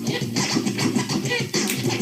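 Old-school hip hop track with turntable scratching: quick wavering scratch sounds over a steady drum beat and bass line.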